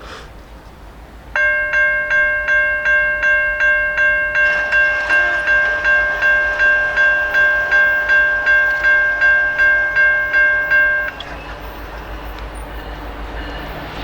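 Railroad grade-crossing warning bell ringing at about two strikes a second as the crossing gates come down, starting about a second and a half in and stopping suddenly about three seconds before the end. Beneath it, the noise of the approaching freight train grows.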